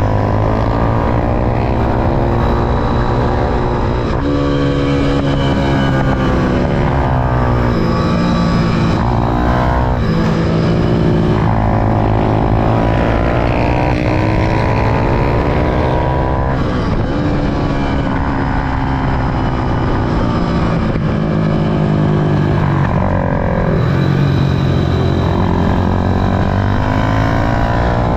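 Small single-cylinder pit bike and mini-bike engines at high revs. They repeatedly rise in pitch under acceleration and drop back on gear changes and braking into corners, with more than one engine heard at once.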